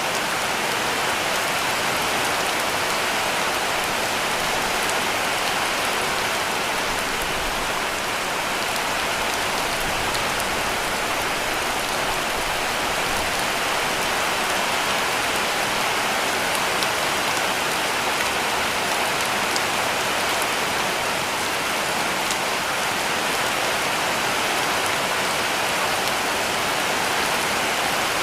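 Heavy rain falling steadily on a cabin roof, an even dense patter of drops.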